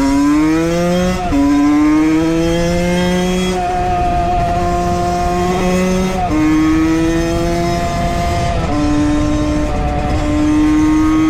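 Valenti 50 motard's two-stroke Minarelli AM6 engine with a Scalvini exhaust, ridden at high revs. Early on the pitch climbs and drops twice with gear changes, then it holds a high, fairly steady note that steps up and down a few times, over a steady rushing noise.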